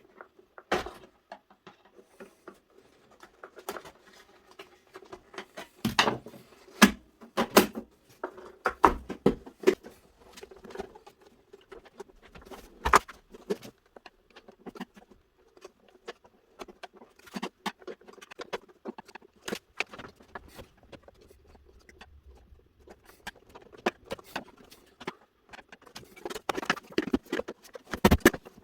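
Parts of a Miele S711 vacuum cleaner being handled and fitted back together during reassembly: scattered clicks, taps and knocks of the casing, busiest about six to eight seconds in and again near the end.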